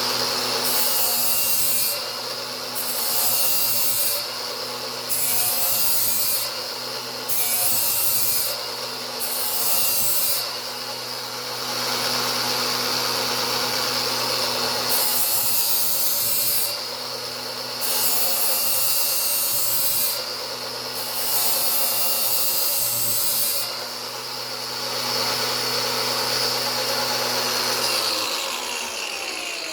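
Angle grinder running steadily while its disc is pushed along a steel mower blade in repeated one- to two-second passes, grinding a new edge; the grinding hiss comes and goes between passes, with a longer pause in the middle. Near the end the grinder is switched off and winds down.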